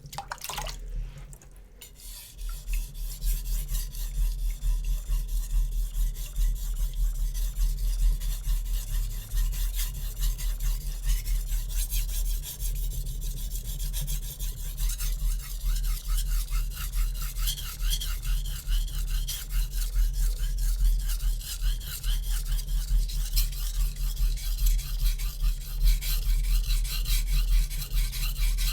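Steel chef knife blade of hard HAP40 (about 66 HRC) being sharpened on a wet Naniwa Super Stone whetstone. Steady, rhythmic push-and-pull strokes give a continuous scraping hiss, starting about two seconds in.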